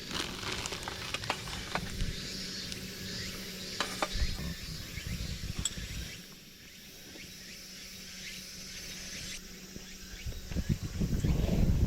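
Camp gear being handled while a kitchen is set up: scattered light knocks and clicks with rustling, and a louder rustle near the end.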